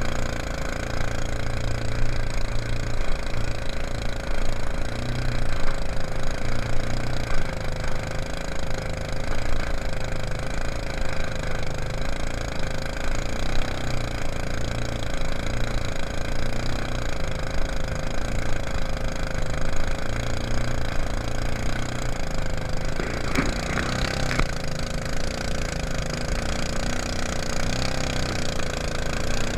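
Mud Buddy long-tail mud motor running steadily at speed, pushing a jon boat, its pitch wavering slightly up and down. A brief higher, brighter sound rises over the engine about two-thirds of the way through.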